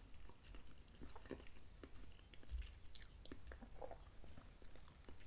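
Faint, quiet mouth sounds of chewing meatballs, with scattered small clicks and taps as a small fork cuts into the meatballs on the plate.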